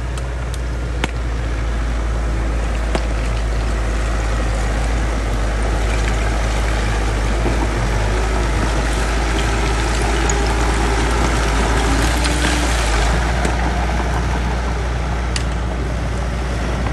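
Bulldozer's diesel engine running under load with a steady low rumble, growing louder for a few seconds past the middle. Occasional sharp clicks and knocks, typical of dirt and stone being pushed.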